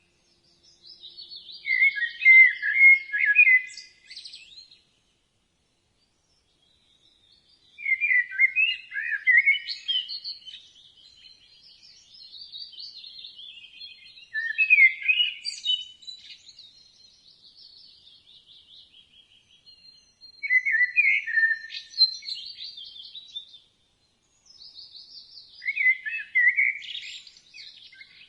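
Budgerigars chirping and chattering in bouts of a few seconds, with fast high warbling notes and short pauses between the bouts.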